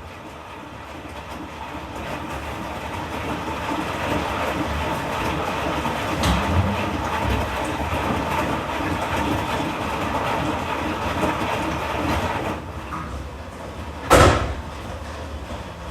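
Washing machine running with a rhythmic churning rattle that builds over the first couple of seconds, holds steady, then eases off near the end. A single loud thump follows.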